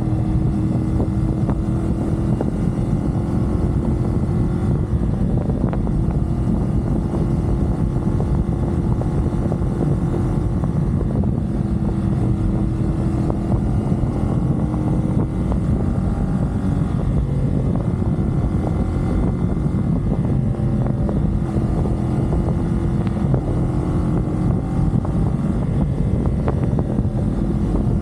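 CFMoto 450SR parallel-twin engine running at a steady expressway cruise, its pitch drifting slightly up and down, under heavy wind and road noise on the microphone.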